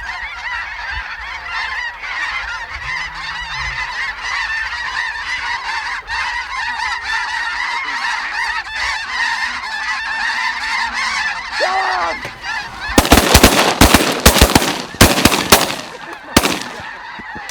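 A large flock of snow geese calling continuously overhead, a dense chorus of high yelping honks. Near the end, a rapid volley of shotgun blasts from several guns rings out over the calling.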